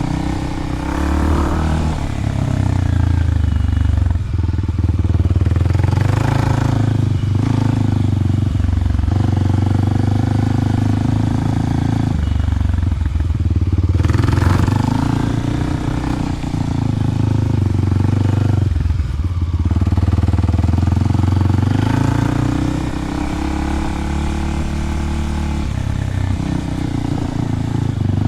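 Kawasaki KLX300 dirt bike's single-cylinder four-stroke engine running through a Delkevic 10-inch oval slip-on exhaust. The engine note rises and falls in pitch several times as the bike is ridden.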